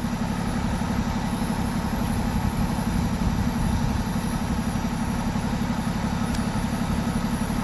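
A vehicle engine idling steadily, a low hum with a fast, even pulse.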